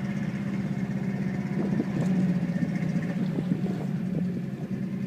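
Engine running steadily with a constant low hum.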